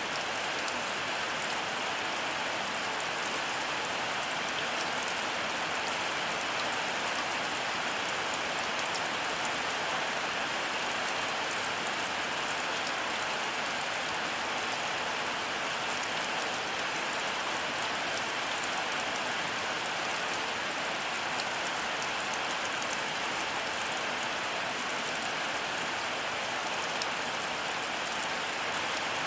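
Heavy rain falling steadily, a dense even hiss with the fine patter of individual drops striking surfaces. No thunder sounds here.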